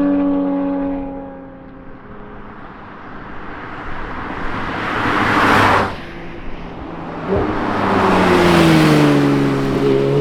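Sports cars driven hard past the microphone, one after another. An engine note fades away first. A second car rushes in, building to a loud pass that cuts off abruptly about six seconds in. A third car then approaches with its engine note falling in pitch and passes loudly near the end.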